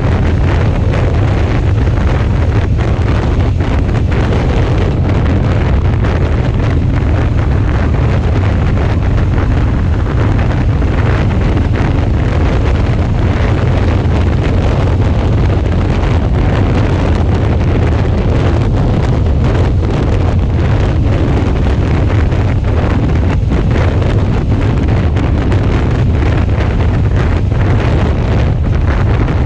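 Steady wind noise on a motorcycle-mounted action camera's microphone at road speed, a loud, even low rumble with the Suzuki V-Strom 650's V-twin engine running beneath it.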